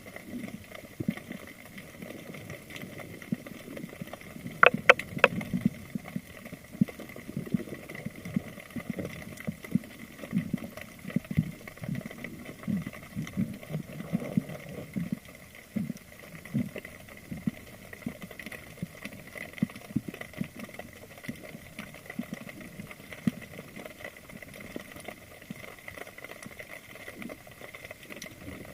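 Spearfishing dive camera picking up water noise: many scattered low knocks and clicks, with two sharper clicks about five seconds in, over a faint steady high whine.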